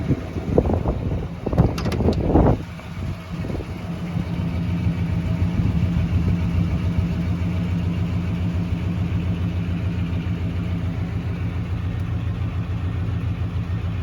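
Chevrolet 350 small-block V8 with a two-barrel carburettor idling steadily, with a fine even pulse. A few loud knocks and clatter come in the first couple of seconds, and about four seconds in the idle comes up louder.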